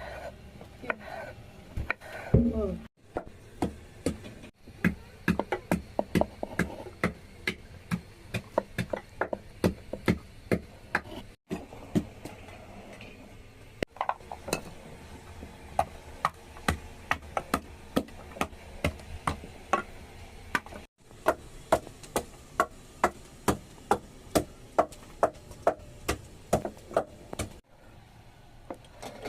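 Rapid, regular knocks, about three a second, in several stretches that stop abruptly and start again, like a hand tool striking wood during food preparation.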